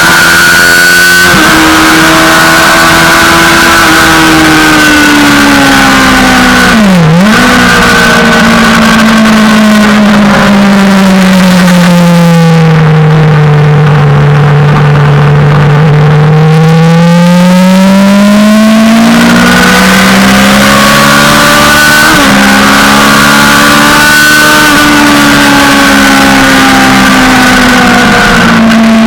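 Suzuki GSX-R600 inline-four sport-bike engine running hard on track. Its pitch dips sharply and recovers about seven seconds in. It then falls slowly to a low drone near the middle, rises again with a stepped change around twenty seconds, and holds high to the end, over a steady rushing noise.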